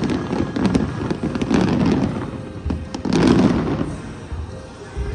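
Aerial fireworks display bursting: a run of booms with rolling rumble and sharp crackles. The loudest burst comes a little past three seconds, and the noise dies down near the end.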